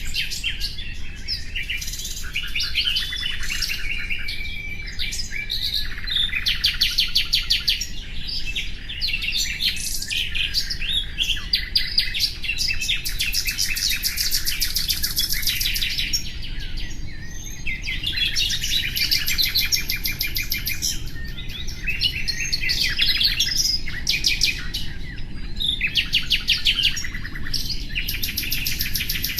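Common nightingale singing: phrase after phrase of rapid repeated notes and trills, each a few seconds long with short pauses between.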